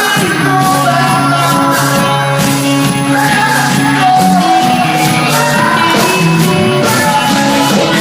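A rock band playing live with a vocalist singing over it, loud and steady.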